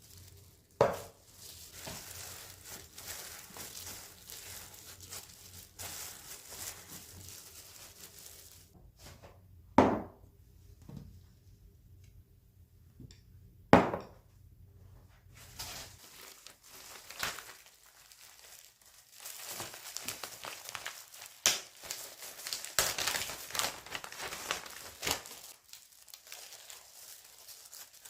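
Close-up handling sounds: irregular crinkling and rustling, like packaging or wrap being handled, with three sharp knocks about a second, ten seconds and fourteen seconds in. A faint low hum stops a little past halfway, and the rustling grows busier in the last third.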